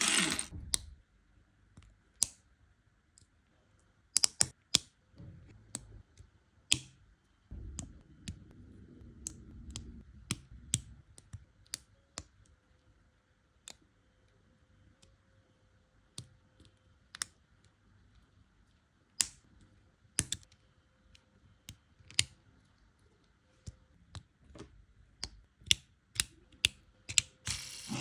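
Plastic LEGO bricks clicking and snapping together: sharp single clicks at irregular intervals, with a softer stretch of rustling and shuffling of pieces about eight seconds in.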